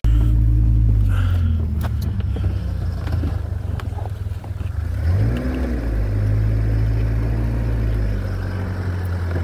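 Car engine running with a steady low drone, briefly revved up about five seconds in and settling back.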